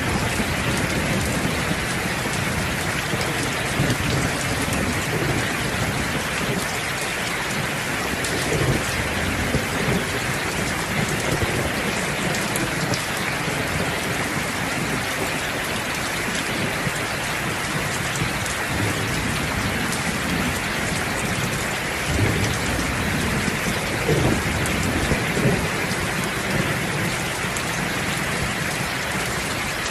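Steady heavy rainfall, with low rumbles of thunder swelling around ten seconds in and again a little after twenty seconds.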